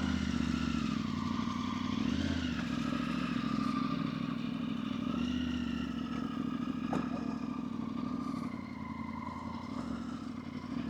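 Motorcycle engine running on the move, its pitch rising and falling gently, a little quieter near the end.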